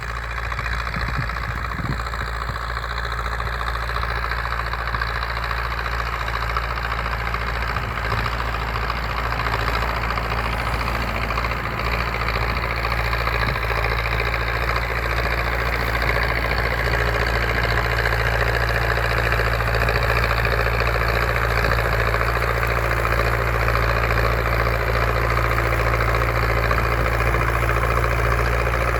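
MTZ-82 Belarus tractor's four-cylinder diesel engine running steadily while ploughing, growing slowly louder over the stretch.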